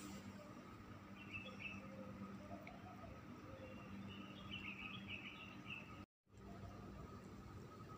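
Faint birds chirping in short twittering phrases over a low steady background hum. The audio drops out for a moment about six seconds in.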